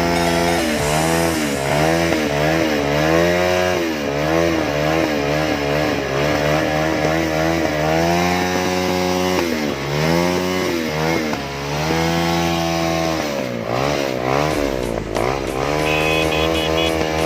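Motorcycle engines revving up and down again and again over a steady idle. Near the end a rapid, pulsing high-pitched tone joins in.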